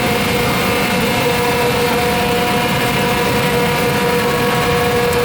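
A motor running steadily: a constant whine over a low rumble.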